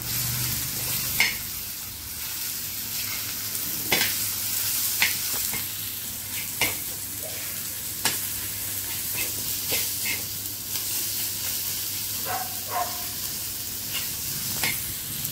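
Onion-tomato masala sizzling on a tawa while a metal spatula stirs it, with irregular clicks and scrapes of the spatula against the pan.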